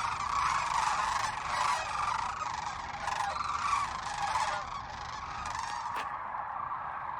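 A large flock of sandhill cranes calling, many rolling calls overlapping at once, thinning out after about five seconds. A single sharp click sounds about six seconds in.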